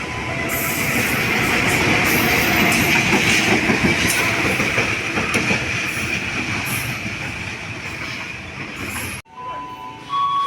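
Long-distance passenger train passing close by, wheels and carriages rumbling and clattering on the rails with a steady high metallic hiss from the wheels. The sound cuts off sharply about nine seconds in.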